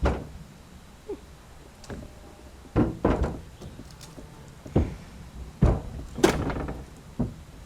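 A series of heavy thunks and knocks, about seven at irregular intervals, a few trailing a short ring, as parts of the truck body are banged and worked loose.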